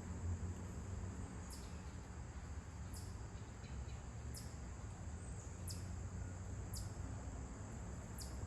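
Insects trilling in a steady chorus, with a short high chirp that falls in pitch, repeated evenly about every second and a bit, over a low rumble.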